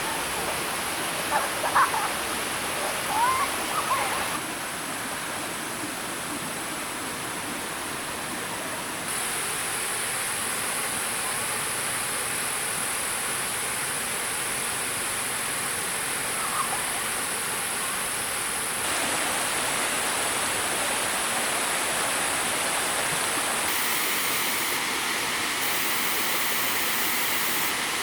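Flowing stream water rushing steadily. Its level and tone shift abruptly several times, with a few short high chirps in the first few seconds.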